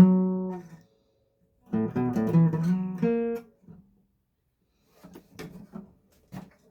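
Acoustic guitar: a strummed chord rings and fades out within the first second, then after a pause a short phrase of strummed chords ends on a held chord. Faint taps and knocks follow in the last couple of seconds.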